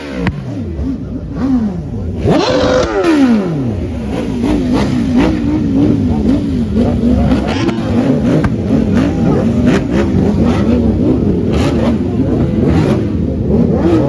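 A car engine revved hard once, the pitch rising and then falling away, then blipped over and over, the revs rising and falling about twice a second.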